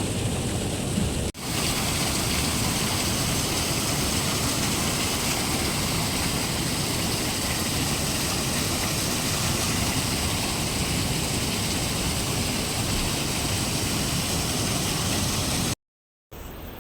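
Steady rushing of a small waterfall pouring down close by, with a brief break about a second in; it cuts off near the end.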